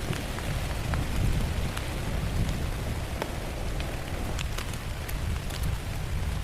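Heavy rain falling steadily, with many separate drop hits over a constant low rumble.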